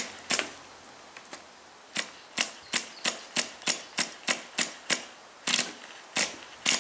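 A series of sharp mechanical clicks, evenly spaced at about three a second, starting about two seconds in after a quiet stretch.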